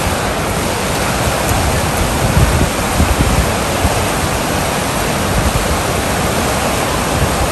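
Rushing stream water, a loud steady rush, with some uneven low rumbling under it.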